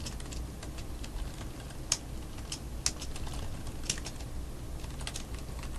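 Typing on a computer keyboard: irregular keystrokes, a few of them louder clicks.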